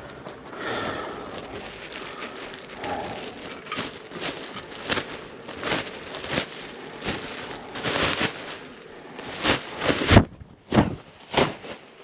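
Bee smoker's bellows pumped in a steady rhythm, a short puff of air roughly every 0.7 seconds, loudest near the end, over rustling handling noise.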